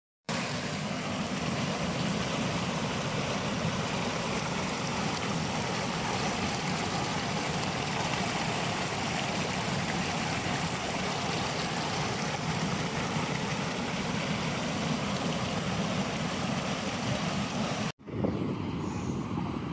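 Steady rush of flowing water, like a stream or small waterfall. It cuts off abruptly near the end and gives way to a quieter stretch of water.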